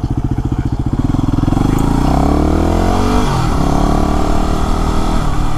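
Yamaha WR250R's 250 cc single-cylinder engine idling with an even pulse, then pulling away about a second in, its pitch rising and louder. The pitch dips briefly around the middle, then the engine runs on steadily at low speed.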